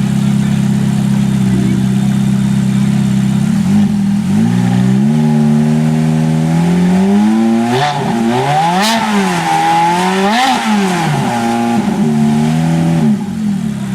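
Exotic sports car engine idling, then revved up in steps and blipped sharply twice before dropping back to idle.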